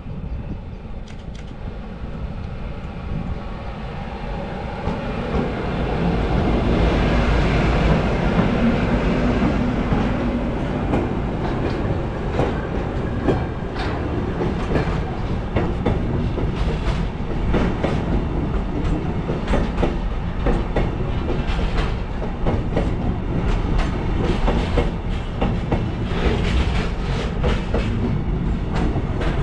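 Freight train passing: a low rumble that builds over the first several seconds, then steady wagon wheels clicking over rail joints.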